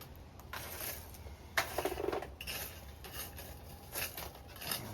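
Metal tools scraping and clinking at a blacksmith's forge in a run of short, irregular bursts, the loudest about one and a half seconds in, over a low steady hum.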